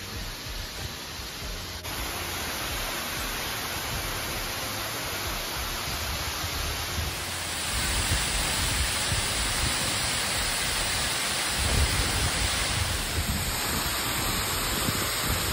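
A large waterfall's steady rushing roar of falling water, with no pitch or rhythm, a little louder from about halfway through.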